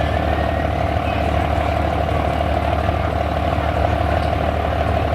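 Heavy diesel engine of a pulling tractor or truck running steadily at an even speed, with no revving.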